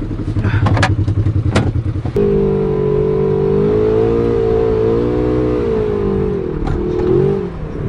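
ATV engine running with some clattering, then revving up about two seconds in as it pulls away, its pitch wavering with the throttle until it eases off near the end.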